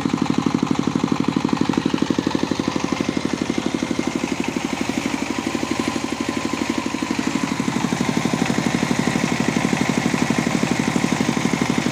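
S1115 single-cylinder 25 HP diesel engine running steadily as it drives the generator, a rapid, even chugging.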